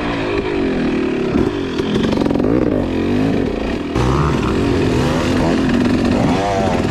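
Two-stroke dirt bike engine being ridden hard, its pitch climbing and dropping again and again as the throttle is worked, with a step up in loudness about four seconds in.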